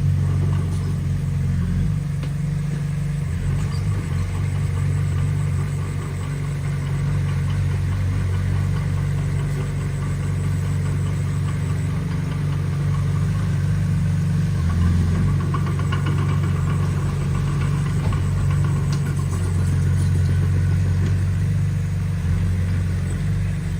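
Heavy construction machine's diesel engine running steadily, a deep hum whose note shifts slightly now and then.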